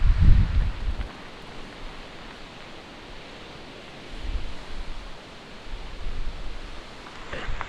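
Wind gusting over the microphone in low rumbles, over a steady rushing hiss, with a few light clicks near the end.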